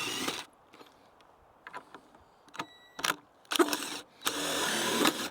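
A power tool running in short bursts, the last one lasting about a second, with a few sharp knocks and clicks between the bursts, during work on long bolts set through wood.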